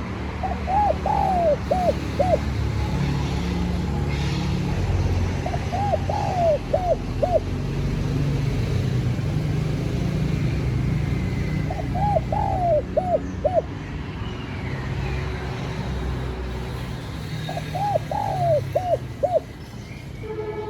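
Spotted dove cooing, four song phrases about six seconds apart, each a quick run of several arched coos. A steady low rumble runs underneath.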